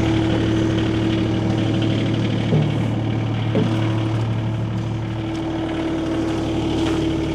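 Skid steer engine idling steadily, with two brief knocks about two and a half and three and a half seconds in.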